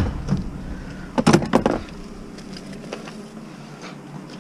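A quick cluster of knocks a little over a second in, from working on a large metal tank to open it up and drain it.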